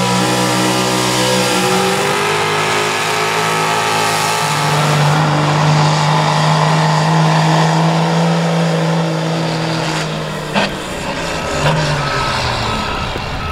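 Pulling truck's engine running hard at high revs under load down the track. Its pitch steps down twice in the first half. The engine drops off about ten seconds in, followed shortly after by a single sharp knock.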